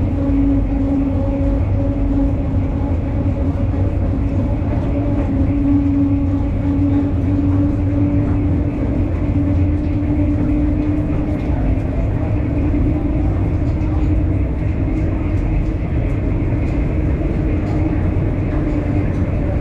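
Mine tour train running along its track: a loud, steady rumble with a constant droning hum.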